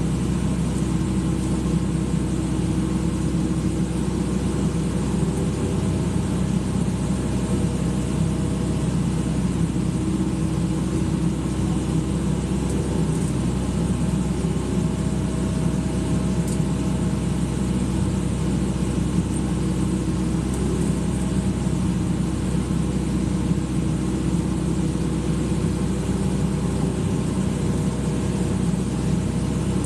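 Excavator's diesel engine running steadily at an even speed, with faint higher tones that come and go.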